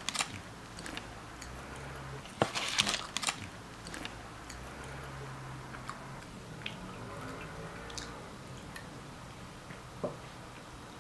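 A person eating close to the microphone: crunchy bites in two clusters, just after the start and again about two and a half seconds in, then quieter chewing with small clicks.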